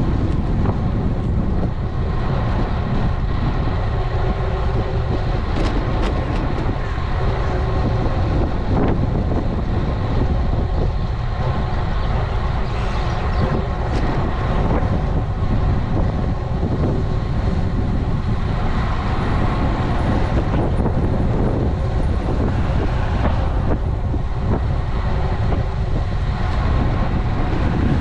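Steady rush of wind buffeting an action camera's microphone on a moving road bike, with a few faint steady tones underneath.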